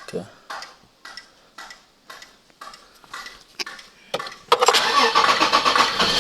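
A series of short knocks, about two a second, then about four and a half seconds in the 2007 Toyota Highlander's engine starts and keeps running steadily. The start comes with the no-crank, no-start fault cured by reseating an EFI fuse that had only partial contact.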